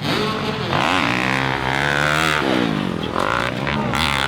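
Motocross dirt bike engines revving hard on the track; the pitch climbs, then falls about two and a half seconds in as a rider rolls off, and another bike revs near the end.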